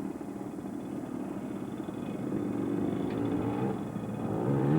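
Small dirt bike engine running at a distance, its pitch rising and falling as it revs near the end.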